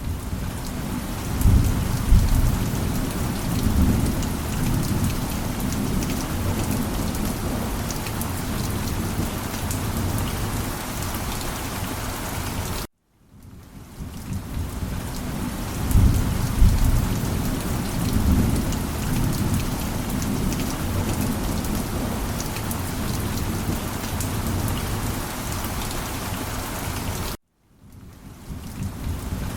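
Heavy rain falling steadily, with low rolls of thunder about two seconds in and again about sixteen seconds in. The sound cuts out to silence about thirteen seconds in and again near the end, fading back up each time, as the same stretch of rain and thunder repeats.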